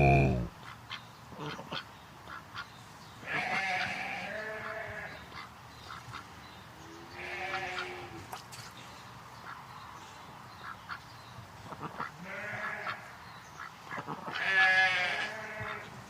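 A farm animal calling four times, in short, wavering calls a few seconds apart.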